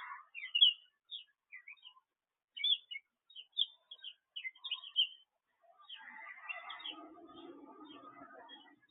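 Wild birds chirping: many short, high chirps with gaps between them. About six seconds in, a denser, lower chattering joins in.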